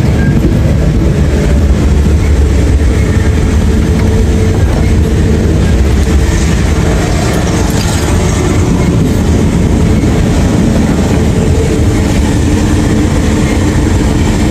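Inside a moving slow passenger train carriage: the steady, loud rumble and rattle of the train running along the rails.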